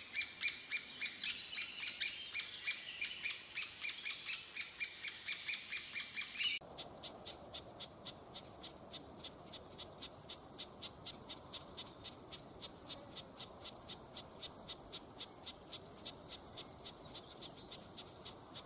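Birds calling in a loud run of sharp, repeated chirps, several a second. The run cuts off abruptly about six and a half seconds in and gives way to a fainter, even series of short high chirps.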